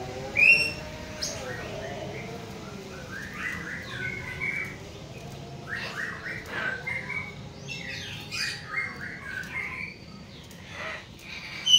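Hill mynas calling: one loud, sharp call about half a second in, then a run of short chirps and squawky call notes.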